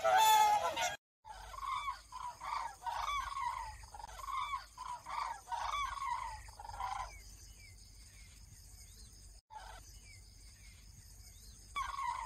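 A flock of wild waterbirds calling: a run of short, loud calls, each dropping slightly in pitch, several a second. Then come fainter, higher calls, and the loud calls return briefly near the end.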